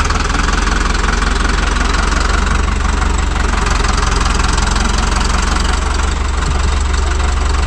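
Tractor engine running steadily as the tractor is driven.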